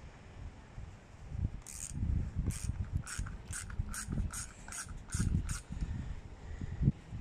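Hand ratchet wrench clicking as it is worked back and forth, about a dozen quick clicks over four seconds, with low knocks from handling the tool and part.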